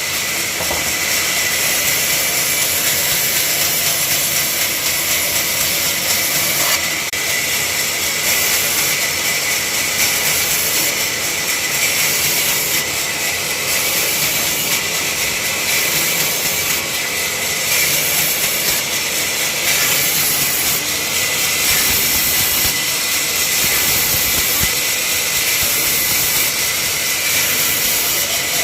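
A woodworking machine running steadily, giving a continuous loud, high hiss.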